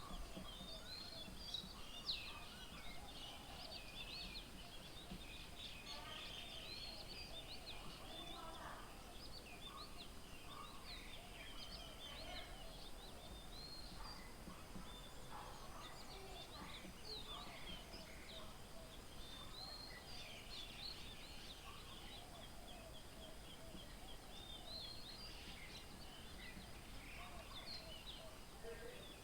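Faint chorus of wild birds: many short chirps and whistles overlapping almost without a break, with some lower calls mixed in.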